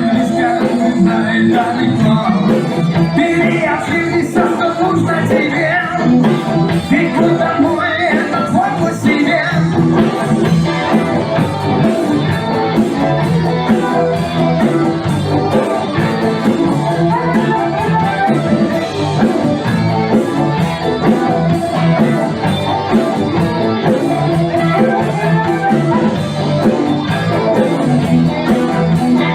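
A band playing a song with guitar and a steady beat, with singing at times.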